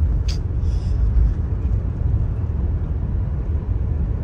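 Steady low road and engine rumble heard inside a moving car's cabin, with a brief sharp click about a third of a second in.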